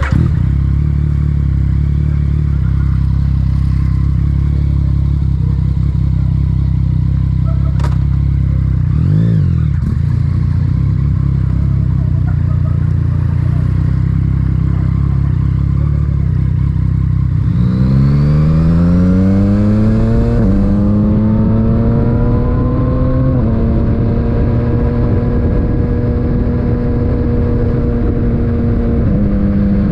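Yamaha MT-09's three-cylinder engine through an Akrapovic titanium aftermarket exhaust, running steadily at low revs. About eighteen seconds in it accelerates, the pitch rising through two upshifts, then it settles into a steady cruise.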